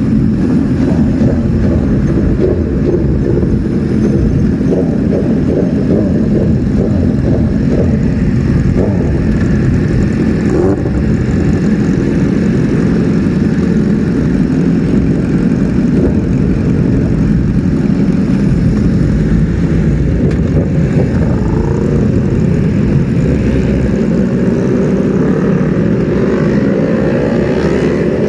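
Superbike engines running at idle, a steady low rumble.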